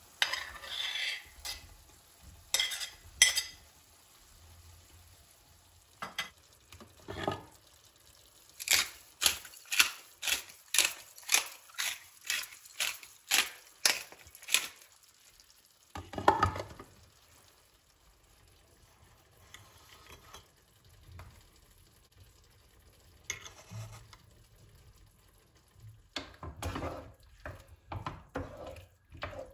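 Kitchen cooking sounds: a utensil stirring and knocking in a pan or bowl, with a run of about fourteen quick, even strokes midway, and scattered clatter and scraping around it.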